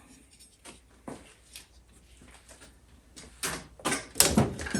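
Metal parts of a jukebox Write In Read Out mechanism being handled on a bench: a few light clicks, then several louder knocks and clatter near the end as pieces are moved and set down.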